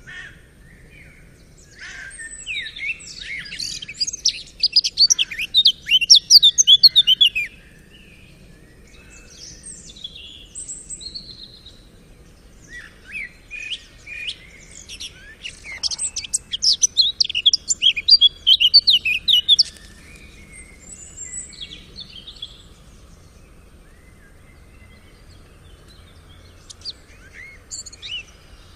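A songbird singing: two long bouts of fast, varied high chirps and trills, with scattered fainter calls in between.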